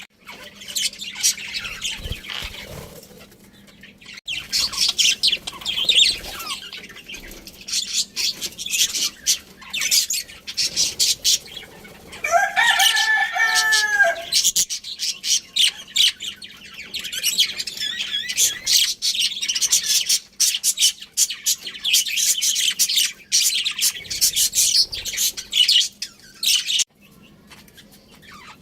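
Budgerigars chattering with rapid, high chirps throughout. About twelve seconds in a rooster crows once, a drawn-out call lasting about two seconds.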